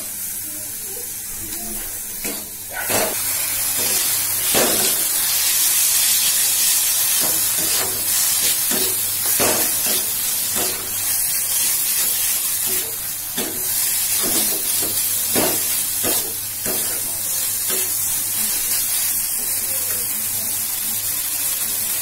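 Chicken pieces frying in masala in a wok: a steady sizzle, louder from about three seconds in, with the spatula scraping and knocking against the pan now and then as it is stirred.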